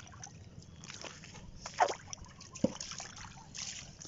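Shallow seawater sloshing and splashing among reef rocks in an irregular patter as people wade and pick through it, with two sharper, louder splashes a little under a second apart around the middle.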